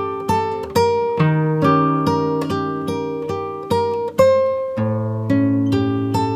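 Background music of a plucked acoustic guitar, single notes picked at about two a second, each ringing out, with a deeper bass note joining near the end.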